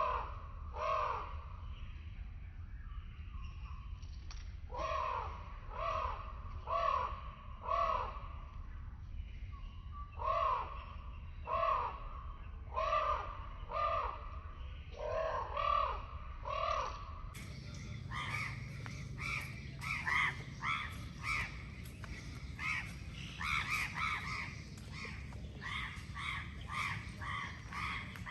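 Birds calling in runs of three or four repeated calls about a second apart, over a steady low background hum. After a cut about 17 seconds in, the calls come quicker and higher-pitched.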